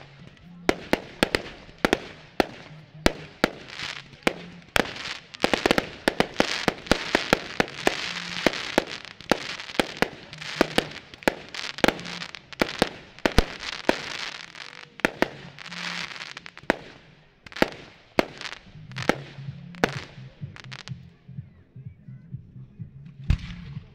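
Fireworks display: a rapid series of loud aerial shell bursts, several a second at the peak, with a dense crackling hiss between the bangs from about five to seventeen seconds in. The bangs thin out after about eighteen seconds, over music playing underneath.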